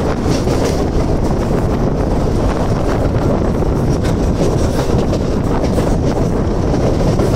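Mumbai suburban local electric train running along the track at speed, heard from its open doorway: a steady noise of wheels on rails mixed with wind buffeting the microphone.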